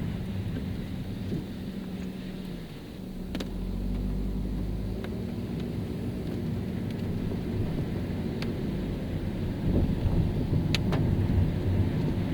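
Car driving on a rain-wet road: steady low engine and tyre rumble that swells and grows louder toward the end, with a few sharp clicks.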